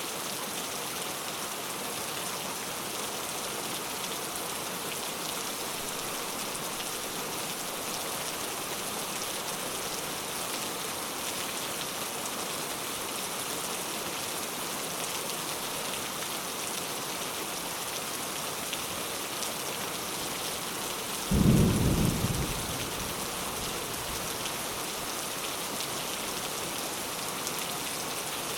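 Steady rain falling. About three-quarters of the way through, a short low rumble of thunder, lasting about a second and a half, is the loudest thing.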